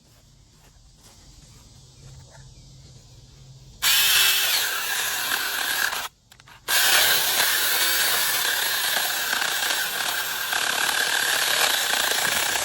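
Battery-powered mini electric chainsaw starting abruptly about four seconds in and running at full speed. It is released for about half a second just after six seconds, then runs again until the end.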